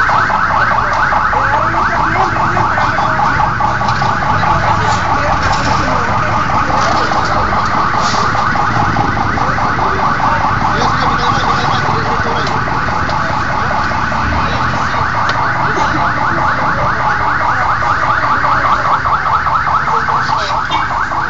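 An electronic siren warbling rapidly and steadily for the whole stretch, then cutting off suddenly at the end.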